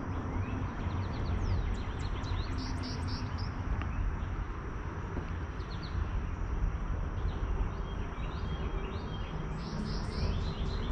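Small birds chirping in short, repeated calls over a steady low outdoor rumble, with the calls bunching about three seconds in and again near the end.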